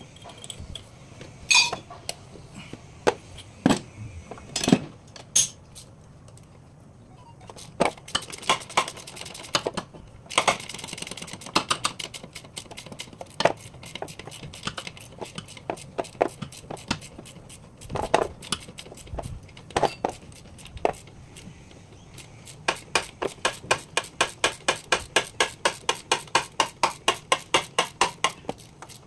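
Metal hand tools clinking and knocking against metal during gearbox removal. Near the end, a long even run of clicks, about three or four a second.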